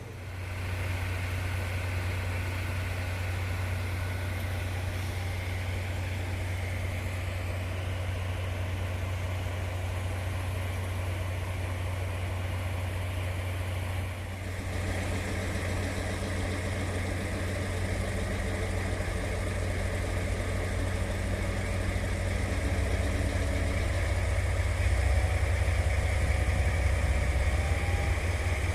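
A train standing or running slowly at a station platform: a steady low mechanical hum, with a change in the sound about halfway through, growing louder over the last several seconds.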